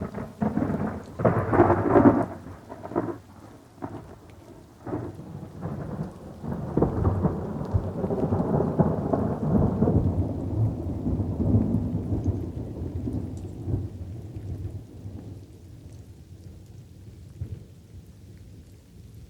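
Thunder: a close clap with sharp cracks in the first few seconds, then a long rolling rumble that slowly dies away, over light rain.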